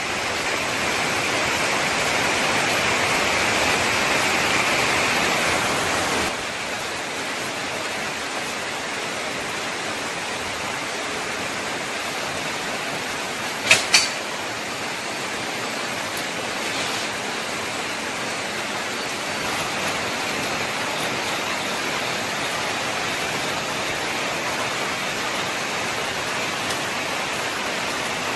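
Steady rain falling on garden foliage, an even hiss that drops a little in level about six seconds in. Two sharp clicks come close together near the middle.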